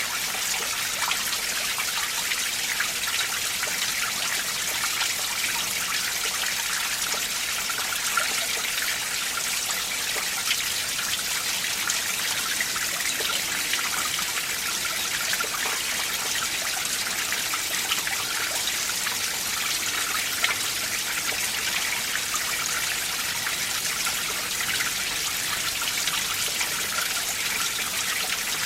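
Winter mountain stream, its water running and trickling over rocks and ice in a steady, bright splashing rush.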